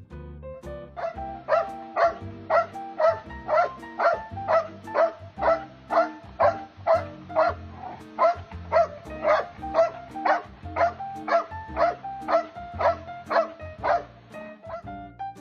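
A dog barking over and over at an even pace, about two barks a second, over background music.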